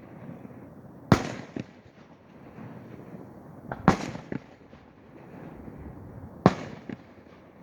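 Fireworks exploding: three loud booms about two and a half seconds apart, each followed about half a second later by a softer crack.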